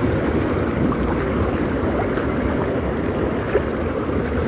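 Water rushing and churning steadily close by, an even, unbroken wash of sound.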